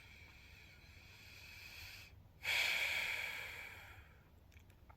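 A man breathing audibly close to the microphone: a faint breath, then a louder breath about two and a half seconds in that fades away over a second and a half.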